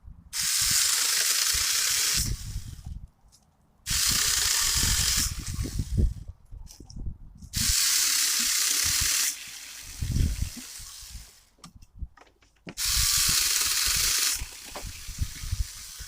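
Saker 20V 4-inch cordless mini chainsaw run in four short bursts of about one and a half to two seconds each, starting and stopping abruptly as the trigger is pulled and released, cutting through small branches. Knocks and thuds come between the bursts.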